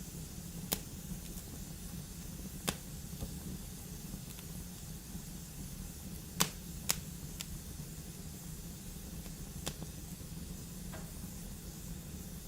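Fire burning in a fireplace: a steady low rush of flame with about seven sharp crackling pops scattered through it, the loudest about six and a half seconds in.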